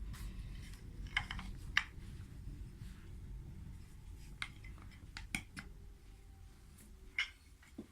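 Wooden toy train track pieces clicking and knocking together as they are handled and fitted, a scattering of sharp, irregular clicks.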